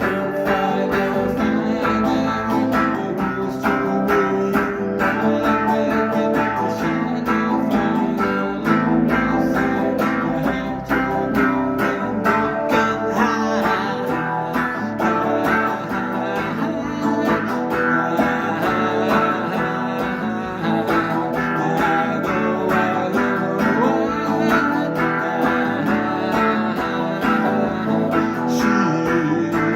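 Music led by strummed guitar, playing steadily throughout.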